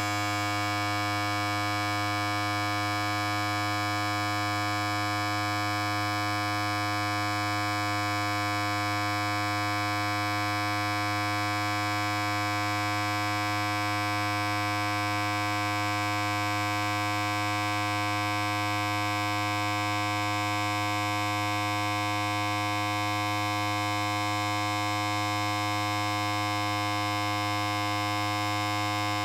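Electric hair clipper running continuously: a steady, unchanging buzz.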